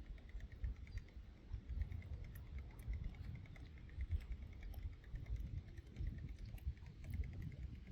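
Fishing reel being cranked on a retrieve after a cast, a faint steady ticking of several clicks a second, over a low, uneven rumble.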